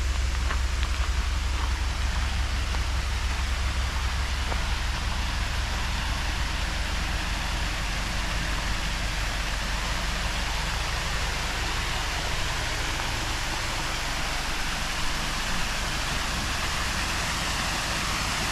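Steady rushing of a waterfall, its hiss a little brighter in the second half, with a low rumble underneath that fades after the first several seconds.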